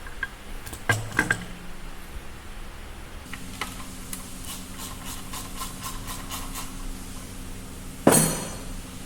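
Metal tools and engine parts being handled during disassembly of a BMW S1000RR engine: a few sharp clicks, then a run of regular clicks over a low steady hum, and one loud metallic clank near the end.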